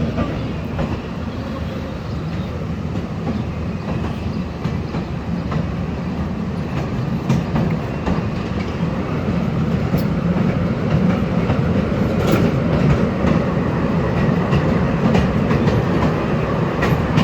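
Amusement park train running along its track, heard from aboard: a steady rumble of the cars with occasional faint clicks from the wheels, growing a little louder partway through.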